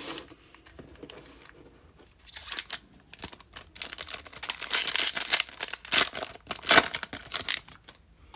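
Foil wrapper of a 2020 Topps Fire baseball card pack being torn open and crinkled by hand. A dense run of crackling starts about two seconds in and is loudest past the middle.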